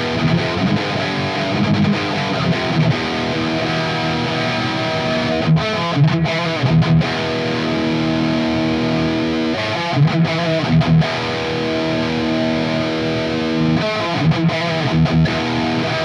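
Distorted electric guitar played through an Earthquaker Devices Plumes overdrive in symmetrical-clipping mode into a high-gain EVH 5153 EL34 amp, picked up by a microphone right at the speaker cone, with the pedal's tone knob turned back. It plays heavy riffing, held chords broken by short, sharp stops.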